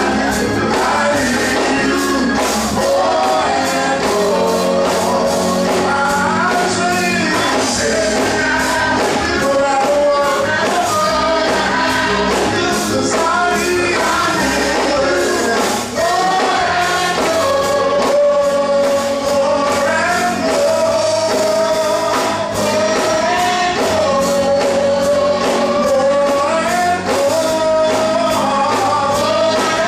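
Gospel music: voices singing a held, wavering melody over band accompaniment with a steady beat.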